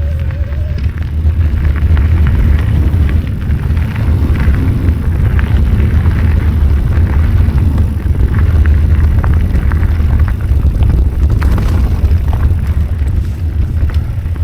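Wind buffeting the microphone during a bicycle ride on a dirt trail: a loud, steady low rumble, with scattered clicks and rattles from the bike over bumps.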